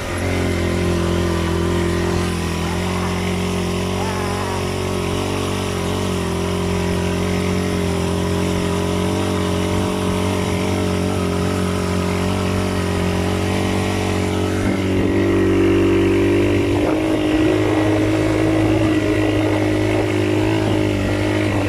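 A motor vehicle's engine running steadily, its pitch shifting a little about 15 seconds in and again a couple of seconds later.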